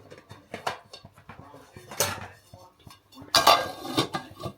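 A metal spoon clinking and scraping against a cooking pot, as when a curry is stirred. There are several scrapes, and the longest and loudest comes near the end.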